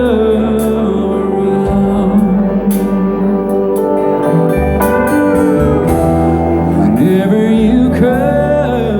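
Live band music with a singer holding long notes that bend in pitch, over a bass line that steps between notes every second or two.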